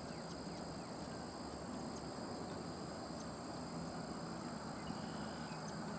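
Outdoor wetland ambience: a steady, high-pitched insect drone over low background noise.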